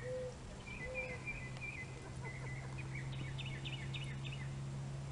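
Birds chirping, with a quick run of rapid chirps about three seconds in, over a steady low hum.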